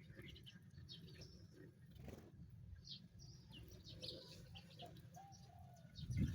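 Sparrows chirping faintly, scattered short high chirps over a low steady rumble.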